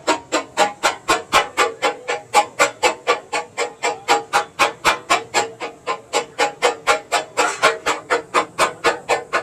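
Two metal spatulas striking and chopping on a tawa griddle in a fast, steady clatter, about five ringing strikes a second, as the chicken is cut up and mixed on the hot plate.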